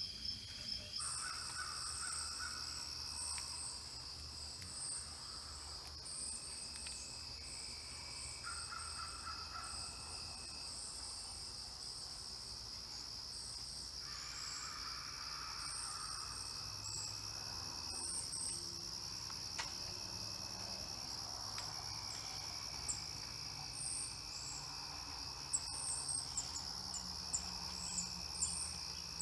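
Outdoor field ambience: a steady high-pitched insect chorus, with birds chirping on and off throughout.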